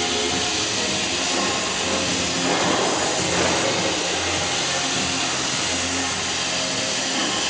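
Steady hiss of oxy-fuel cutting torches on a CNC gas profile cutter burning through steel plate, with a louder rush about two and a half seconds in that lasts about a second. Background music plays over it.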